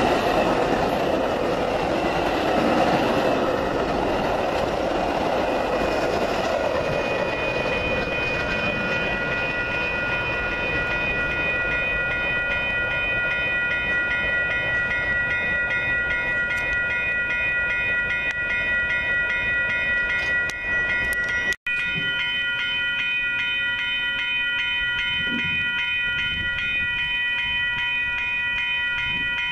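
Metra commuter train of bilevel passenger cars passing with a heavy rumble and wheel clatter that fades over the first several seconds, then a grade-crossing warning bell ringing steadily, cut off briefly about twenty seconds in.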